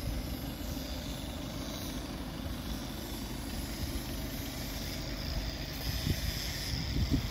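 Škoda Superb Combi 4x4 engine idling, a steady low rumble.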